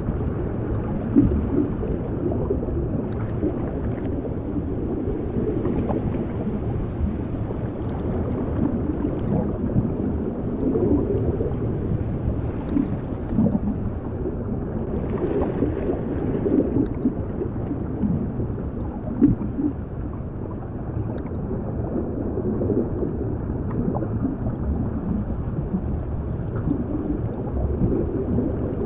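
Underwater ambience: a steady, muffled low rumble with bubbling and gurgling water and a few faint ticks.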